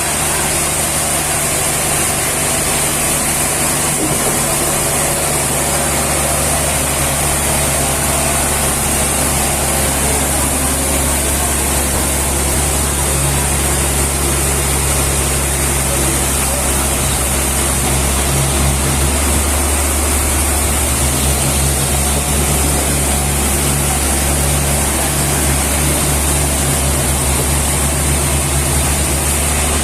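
Steady machinery noise from a heavy engine running continuously, with a low hum and a constant high hiss; the hum shifts briefly about two-thirds of the way through.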